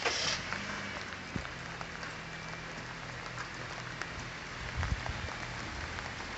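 Steady rain falling, an even hiss with scattered drops ticking, over a faint low hum.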